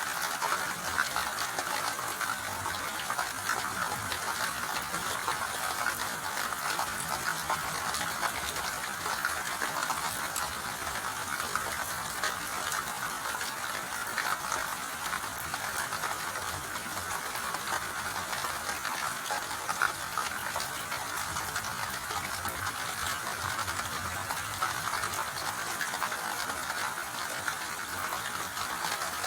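Steady rain falling, a dense even patter of fine drop ticks with no thunder.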